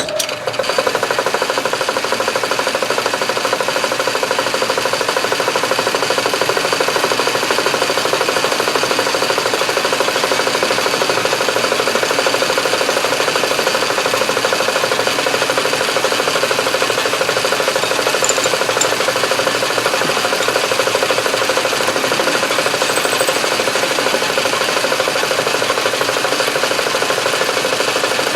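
Metal lathe switched on, coming up to speed within about half a second and then running steadily, a loud even whir with a few constant tones.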